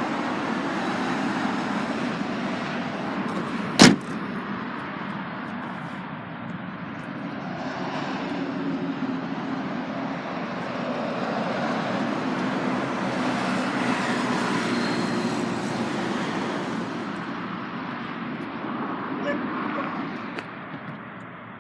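Road traffic passing, a steady noise that swells and fades slowly as vehicles go by. One sharp slam or knock about four seconds in is the loudest sound.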